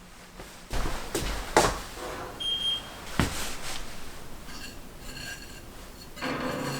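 Knocks and clatters of household objects being handled, with one short electronic beep about two and a half seconds in.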